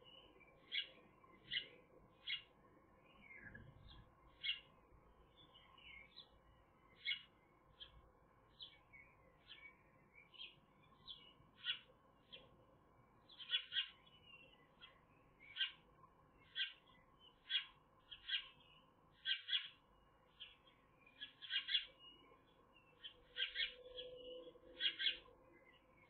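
A bird calling over and over with short, high chirps, about one a second, with softer twittering between them. A faint steady hum runs underneath.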